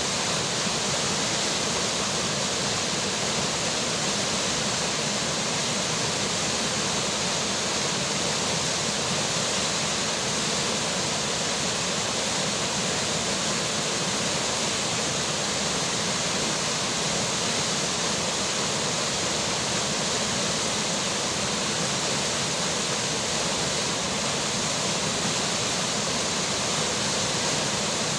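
River water rushing steadily along with falling rain, an even, unbroken hiss.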